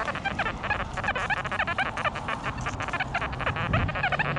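Metal detector sounding a fast string of short chirping tones as the coil sweeps ground full of iron nails; the signal reads as a nail with something else possibly mixed in.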